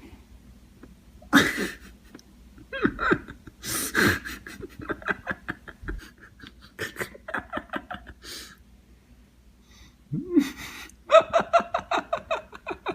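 A person laughing in bursts, with breaths and gasps between, ending in a quick run of ha-ha laughter.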